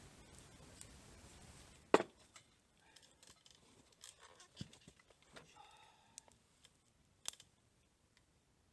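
One sharp knock about two seconds in, followed by scattered light clicks, taps and rustles, with a brief squeak partway through.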